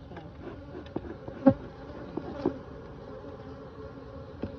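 Honeybees buzzing around an open hive: a steady hum, with two brief louder spikes about one and a half and two and a half seconds in.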